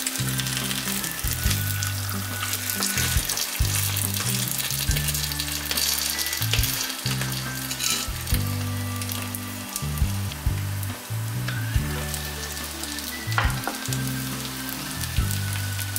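Shredded potato pancake frying in oil in a nonstick pan, sizzling and crackling steadily. A wooden spatula scrapes and taps the pan now and then, with one sharp tap near the end.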